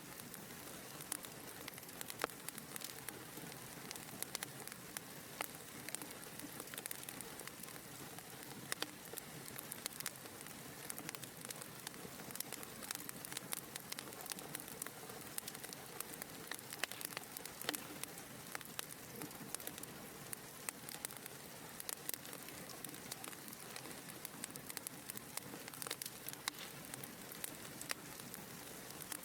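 Wood fire burning in a fireplace: a soft steady hiss with many small irregular crackles and pops.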